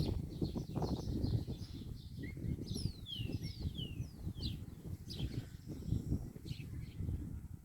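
Small birds chirping and singing, with a run of quick falling whistles a few seconds in, over a steady low rumble.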